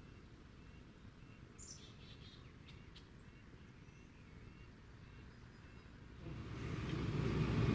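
Birds chirping over a low outdoor rumble; about six seconds in, an engine comes up and grows steadily louder, running with a low, even hum.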